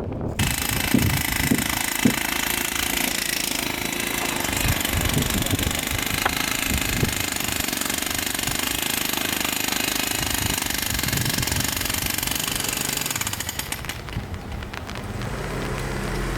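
Jackhammer hammering. It starts abruptly and runs steadily, with a few heavy knocks in the first two seconds, then stops about fourteen seconds in.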